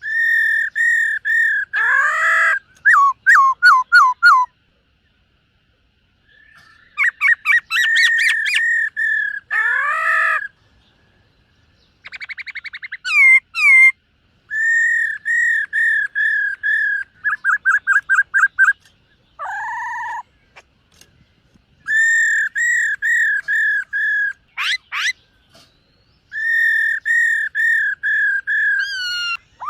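Black-throated laughingthrush singing loud, clear whistled phrases. Most phrases are strings of repeated notes; some are quick runs of falling notes. The phrases are separated by short pauses.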